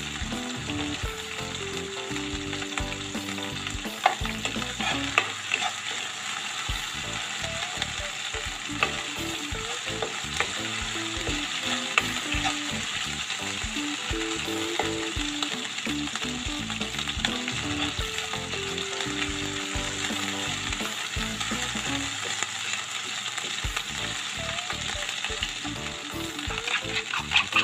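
Ground chili, shallot, garlic and kencur spice paste sizzling steadily in hot oil in a wok while it is sautéed until cooked. A metal spoon stirs it, scraping and now and then clicking against the pan.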